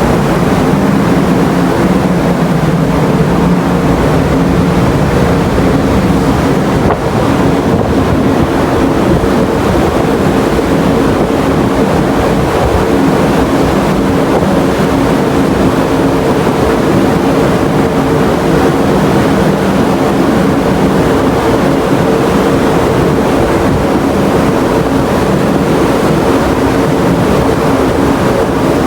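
Steady drone of a large car ferry under way, its engines holding a few even low hum tones, with wind rushing over the microphone.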